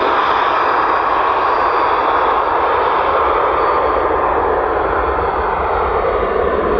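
Business jet's turbofan engines running loud and steady, a continuous rush of jet noise with faint high whining tones, the highest part slowly fading.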